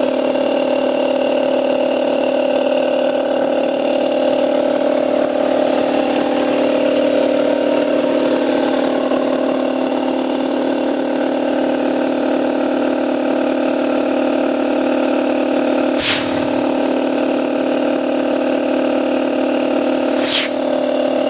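Campbell Hausfeld 60-gallon vertical air compressor running steadily, its electric motor driving the pump as it pumps air. Two sharp clicks, about two-thirds of the way through and near the end.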